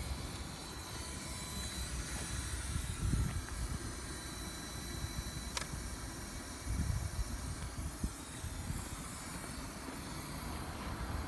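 Engine bay of a VW Scirocco R with the engine running: a steady hiss over a low rumble, with a faint high tone that fades out after about two seconds and a single click about five and a half seconds in. This is the area near the alternator where an abnormal noise started suddenly.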